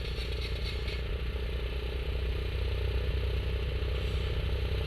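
Railroad motorcar (track speeder) engine running steadily with a rapid, even putter.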